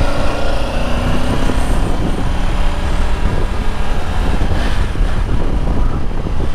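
Triumph Tiger 900's three-cylinder engine pulling hard under acceleration, going up through the gears, under heavy wind rush on the microphone.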